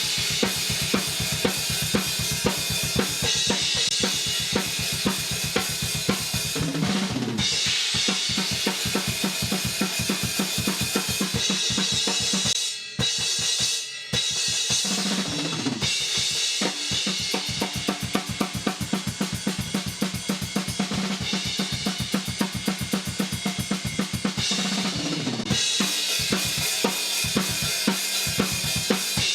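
Thrash metal drum kit recording played back through a dbx compressor: fast, steady bass drum strokes with snare and cymbals. It breaks off briefly twice near the middle.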